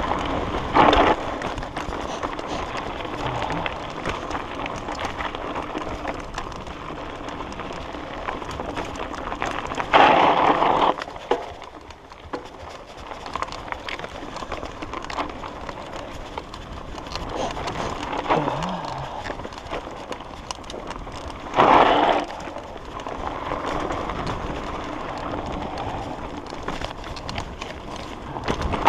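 Mountain bike rolling down a dirt forest trail: a steady rush of tyre and wind noise on the mount's microphone, with a few short, louder bursts of noise as the bike hits rough ground, about a second in, around ten seconds and around twenty-two seconds.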